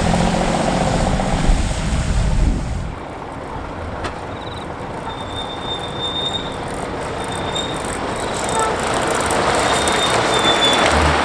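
Heavy truck's diesel engine running loudly, cutting off abruptly about three seconds in to quieter road noise with several brief high-pitched squeals, then a vehicle's sound building again toward the end.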